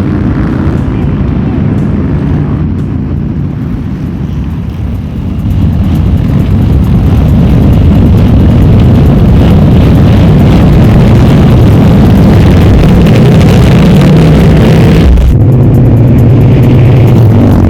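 A pack of motorcycles riding at speed, the engines loud and steady, growing louder about six seconds in and changing abruptly about fifteen seconds in.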